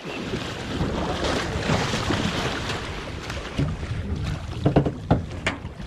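Wind buffeting the microphone over water noise around a small fishing boat, with a few sharp knocks or clicks about five seconds in.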